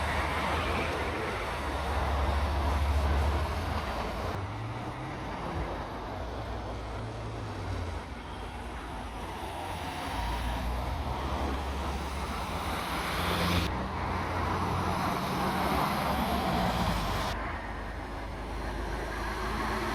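Road traffic passing, with the low rumble of lorry engines rising and falling in pitch as heavy vehicles drive by.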